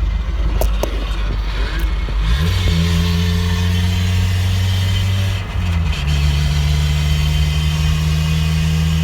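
NA Mazda Miata four-cylinder engine and drivetrain under way. The engine note climbs about two and a half seconds in, breaks off briefly past the halfway point, then holds steady. This is the drivetrain noise the owner has been chasing since changing the differential, still there after a transmission swap.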